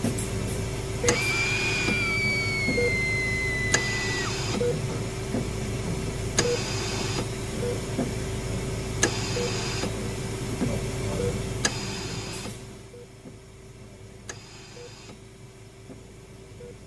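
Sound-designed creepy hospital ambience: a steady low machine hum with a soft beep about once a second and a click and hiss every two to three seconds. A high whine falls slowly in the first few seconds, and about three quarters of the way through the hum drops away, leaving the beeps and hisses quieter.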